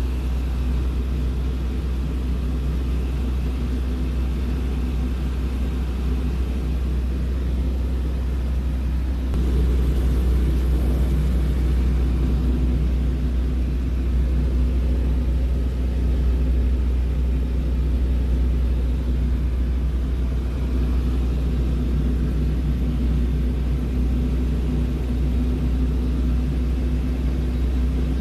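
Small piston airplane's engine and propeller droning steadily, heard from inside the cabin, stepping up a little in loudness about nine seconds in.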